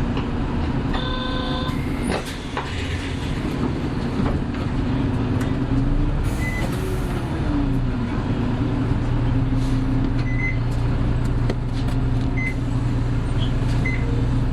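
Diesel engine of a Hino Blue Ribbon City Hybrid bus (type BJG-HU8JLFP) running steadily under way. Its note rises and then falls about halfway through.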